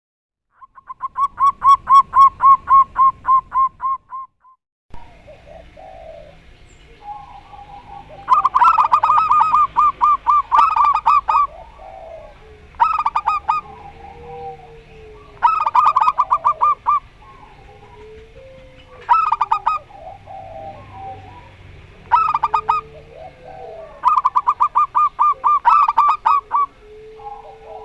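Zebra doves (perkutut) cooing: repeated runs of quick staccato notes, each burst lasting one to three seconds, with softer, lower warbling calls between the bursts. About five seconds in the recording changes, and a steady background hiss comes in under the calls.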